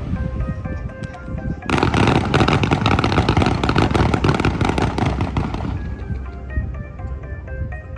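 Aerial fireworks crackling in a dense burst of pops from about two seconds in, fading out after about five seconds. The bursts sound over music with short repeated notes.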